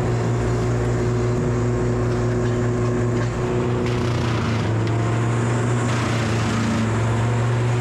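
An engine running steadily at a constant speed, giving an even low hum that barely changes.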